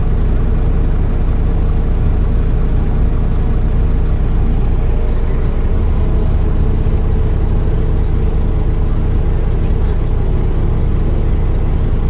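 Scania Omnicity bus's diesel engine and drivetrain running at a steady pitch and even loudness.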